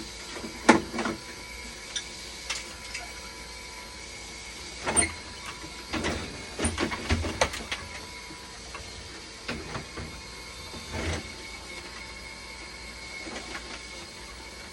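Dialysis machine running with a steady hum and faint even tones, with scattered clicks and knocks, most of them bunched around the first second, the middle and about eleven seconds in.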